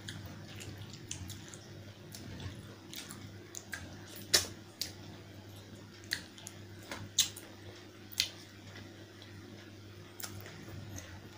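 Wet eating sounds: chewing and squishing of curry and rice, with several sharp mouth smacks scattered through.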